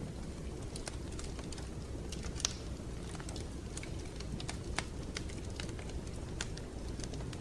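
Wood fire crackling in a fireplace: irregular sharp pops and snaps over a steady low rumble, one louder pop about two and a half seconds in.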